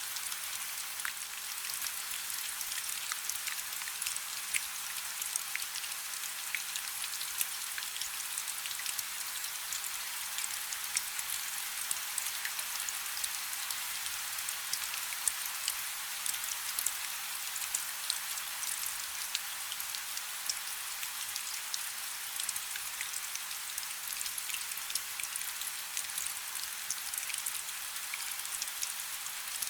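Steady rain falling on a river: an even hiss made of many small drop ticks, with almost no low rumble.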